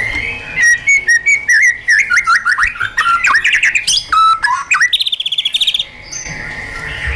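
White-rumped shama singing a fast, varied phrase of whistled notes and sharp clicks, breaking into a rapid trill about five seconds in.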